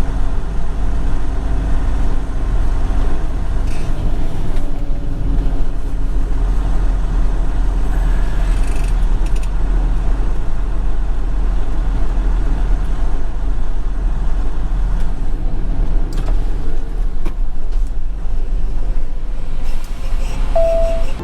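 Semi truck's diesel engine and road noise, a steady low rumble while driving, with a brief steady tone near the end.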